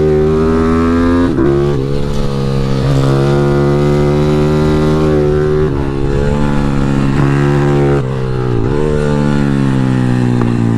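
Pit bike engine held at high revs while lapping a track, its pitch dropping sharply three times as the throttle is shut for corners, then climbing again.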